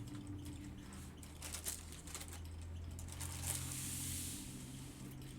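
Quiet handling of small plastic packets of diamond-painting drills and kit parts: a few light clicks and a short rustle about three and a half seconds in, over a steady low hum.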